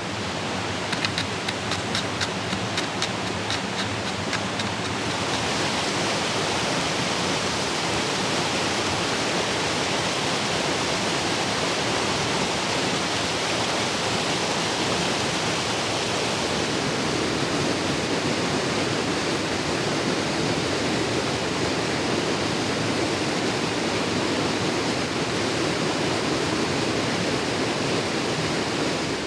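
Steady rushing of falling water, a constant roar with no pauses. Faint rapid ticking runs over it for the first few seconds, then the rush grows slightly louder.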